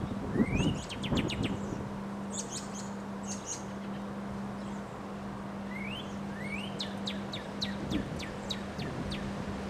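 A songbird singing two phrases, one at the start and one about six seconds in, each a rising note followed by a quick run of sharp chirps. Wind gusts rumble on the microphone in the first second or so, over a steady low hum.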